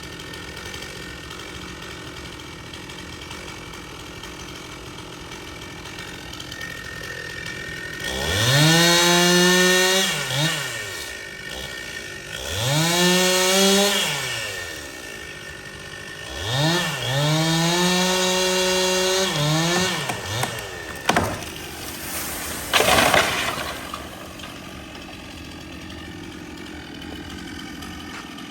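Stihl two-stroke chainsaw idling, then throttled up to full revs three times, each held for one to three seconds before dropping back to idle. A sharp knock and a short burst of noise follow near the end.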